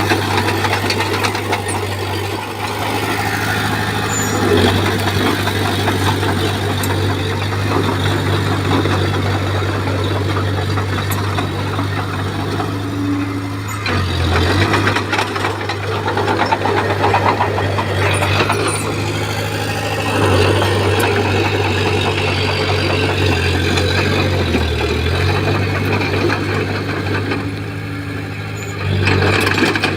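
Komatsu crawler bulldozer's diesel engine running steadily under working load. Its note dips briefly three times: about halfway through, at about four-fifths, and just before the end.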